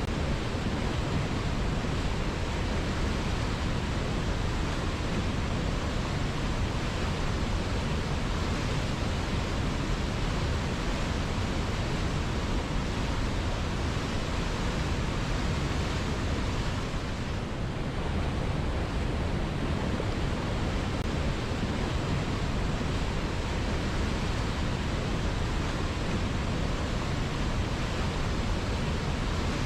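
River water flowing, a steady even rushing, briefly a little softer a little past halfway.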